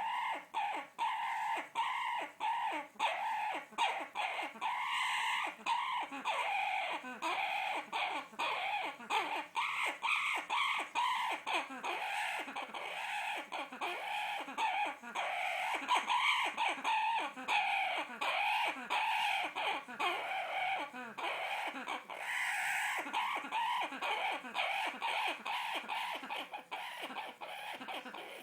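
Parrot making a long run of short repeated calls, about two a second, during a sexual display.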